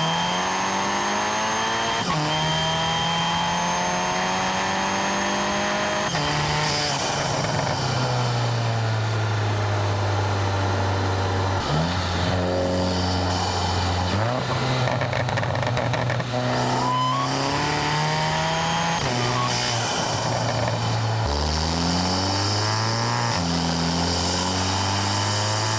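Turbocharged VW GLI's 2.0-litre four-cylinder intake and exhaust under hard driving: the engine climbs in pitch and drops back at gear changes several times over. A steady high turbo whine sits over the engine note, which the owner says is not a boost leak.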